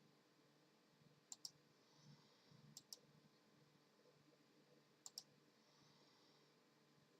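Three faint double clicks, the two clicks of each pair close together, about a second and a half apart, over a quiet steady background hum.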